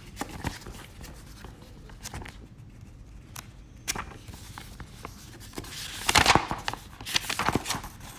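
Paper instruction manual being handled and its pages turned: small clicks and rustles, with louder rustling about six seconds in and again near the end.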